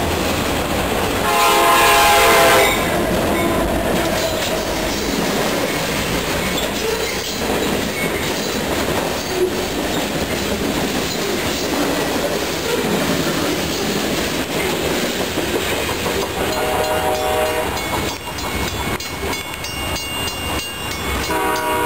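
Pan Am Railways freight train's cars rolling past close by, wheels clattering on the rails. A locomotive horn sounds loudly about a second in, then again more faintly near the end.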